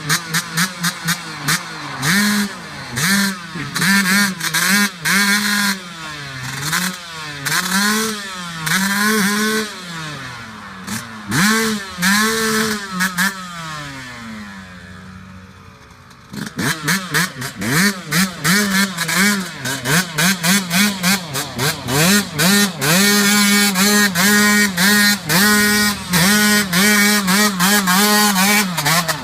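Dirt bike engine revved hard in repeated throttle blips, rising and falling in pitch, as it is worked against the mud it is stuck in. It drops to a low murmur about halfway through, then picks up again with quick blips and long high revs toward the end.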